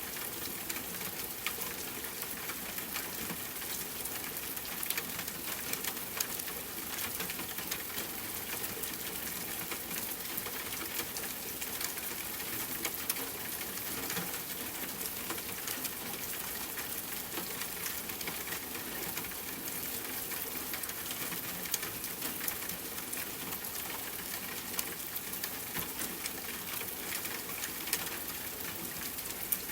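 Steady rain falling on a tent, an even hiss dotted with many small sharp ticks, mixed with the crackling of a campfire.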